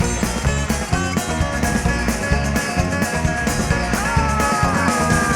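Rock music with a steady drum beat, bass and electric guitar. A held high guitar note bends downward about four seconds in.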